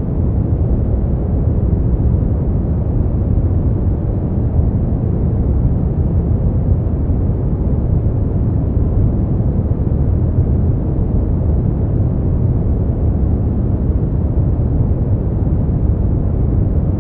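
Brown noise: a steady, deep rumbling hiss, loudest in the bass and fading off in the highs, with no change.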